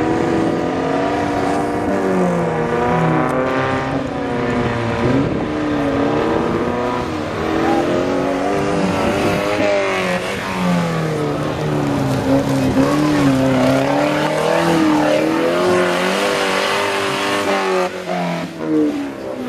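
Off-road 4x4 trial vehicle engines revving hard, their pitch repeatedly rising and falling as the throttle is worked on a steep mud climb.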